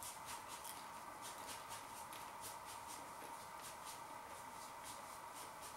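Faint crunching of crispy filo pastry being chewed, a quick run of small crackles that fades after a few seconds, over a steady faint hum.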